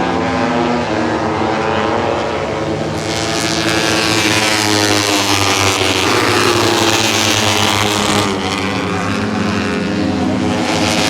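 Moto3 racing motorcycles' 250 cc single-cylinder four-stroke engines running at high revs on track, several engine notes rising and falling as the bikes pass. The sound swells about three seconds in and again near the end.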